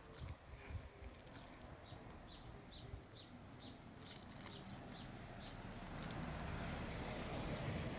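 A small bird chirping a quick series of short, high, falling notes, about three a second, for a few seconds. Near the end a low rushing noise swells up and becomes the loudest sound.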